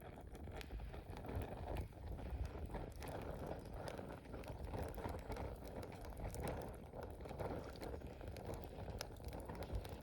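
Wood campfire burning: a steady rush of flames with frequent sharp crackles and pops from the burning wood.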